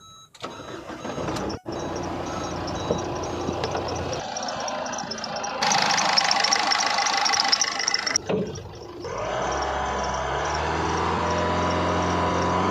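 Ford Figo's engine started and running. It gets louder for a couple of seconds past the middle, then settles into a steady idle near the end.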